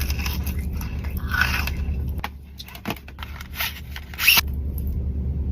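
Crinkling and scraping of chocolate packaging being handled and opened, with scattered sharp clicks and a louder crackle a little after four seconds in, over a low steady hum.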